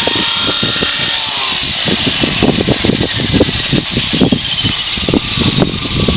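Radio-controlled 450-size helicopter's motor and rotor making a high whine, its pitch gliding down about a second in and rising again later, under heavy gusting wind buffeting the microphone.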